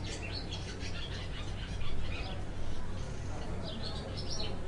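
Small birds chirping in quick, irregular bursts, thicker near the end, over a steady low hum.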